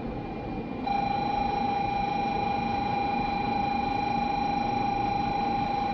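Steady electronic warning tone on a Shinkansen platform, starting about a second in and holding at one pitch over a low station hum, signalling that a train is approaching.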